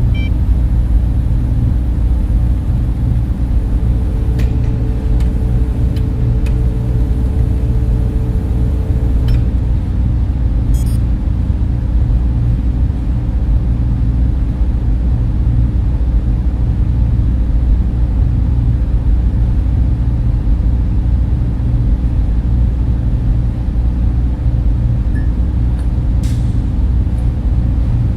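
Steady low drone of data center servers and their cooling fans, even in level throughout. A faint higher tone rides on it from about three to ten seconds in, and there are a few faint ticks.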